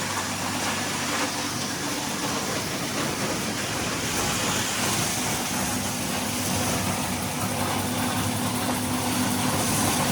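Tractor engine running steadily while it powers a feed grinder mill grinding hog feed: a constant engine hum under an even hiss of the grinding.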